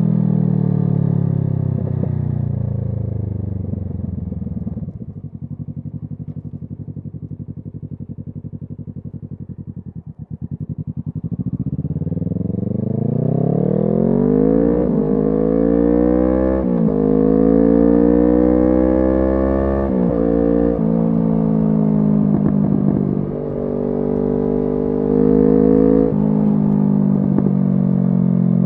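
Kawasaki Z650's parallel-twin engine through an SC Project exhaust. The revs fall away and it runs low and quiet for several seconds. Then it accelerates, the pitch climbing, with two upshifts, and it settles into a steady cruise.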